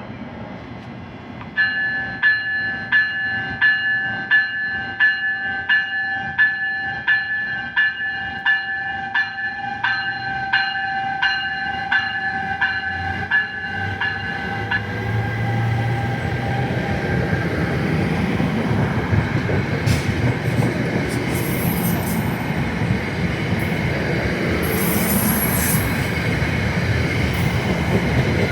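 A bell dings rapidly, about twice a second, for roughly thirteen seconds, then stops. A passenger train's rumble then builds and carries on as the train runs through, with faint high squeals from the wheels.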